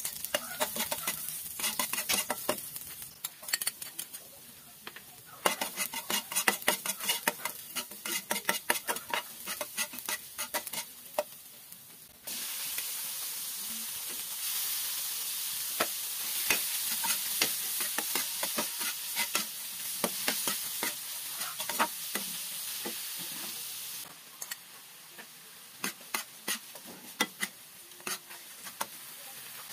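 Onions sizzling in oil in a nonstick pan, with a metal spatula clicking and scraping as it stirs. About twelve seconds in, the sizzle suddenly grows much louder as raw chicken pieces go into the hot oil. It eases off again near the last third, with scattered spatula clicks.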